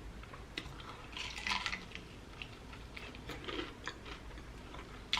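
Close-miked chewing of a sauced chicken wing: wet mouth clicks and smacks coming in scattered clusters.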